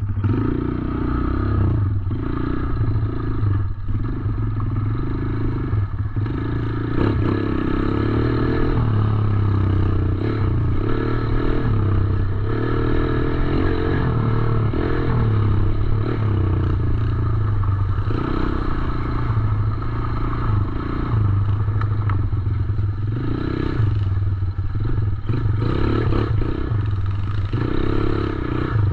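Small 110cc four-stroke dirt bike engine running while being ridden, its note rising and falling with the throttle, with some clattering.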